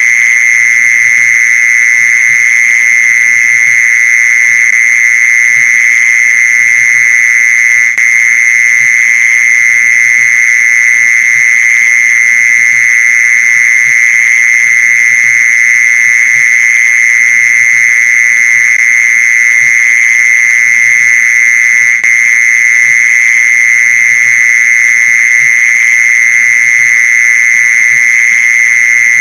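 Mole cricket calling: one steady, unbroken high trill that holds the same pitch throughout, loud and close.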